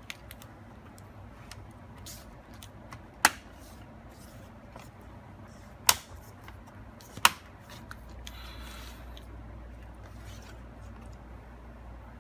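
Small clicks and taps from handling laptop parts and tools, with three sharp, louder clicks spread through the first seven or so seconds. A faint low hum comes in about two-thirds of the way through.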